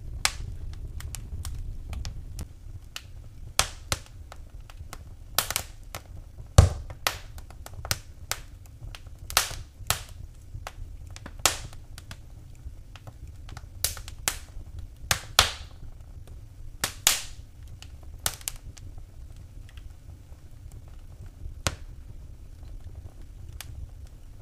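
Wood fire burning in a fireplace, crackling with irregular sharp pops and snaps over a low steady rumble of the flames. The loudest pop comes about six and a half seconds in.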